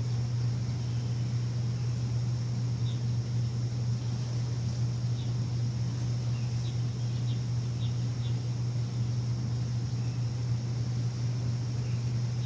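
A steady, loud low machine hum runs without change, while birds chirp briefly a few times, with a cluster of short chirps in the middle.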